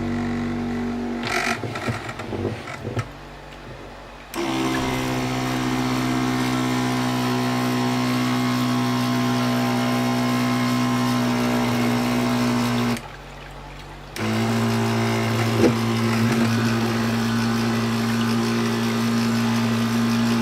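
Small DC fan motors of a homemade air cooler running with a steady hum and rush of air. They switch on about 4 seconds in, stop around 13 seconds and start again about a second later, with a few handling knocks before the first start.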